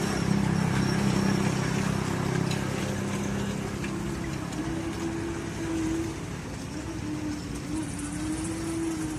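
Engine of a night-market ride train running, a steady drone whose pitch wavers, dipping and then rising near the end.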